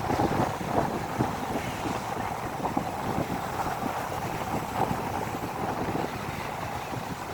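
Stormy wind buffeting the microphone in uneven gusts over the rush of rough sea surf.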